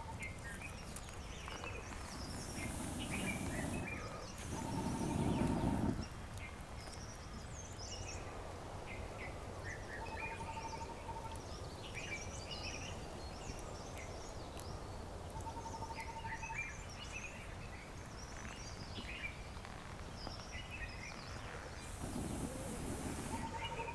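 Several wild birds chirping and calling, one repeating a single short, steady whistled note about every five seconds. A rushing noise over a low rumble swells and cuts off just before six seconds in, then builds again near the end.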